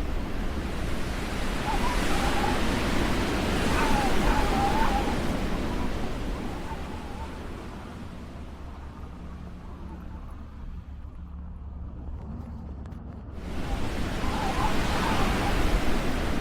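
Wind rushing over the microphone in a snowstorm, a steady roar that dies down for several seconds in the middle and comes back abruptly near the end. Faint voices show through at times.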